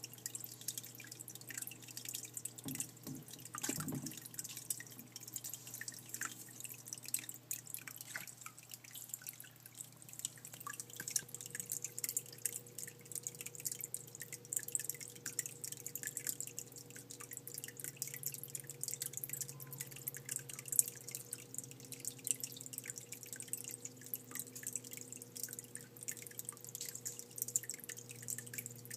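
Water dripping and trickling in a rapid, constant patter of drips, over a low steady hum.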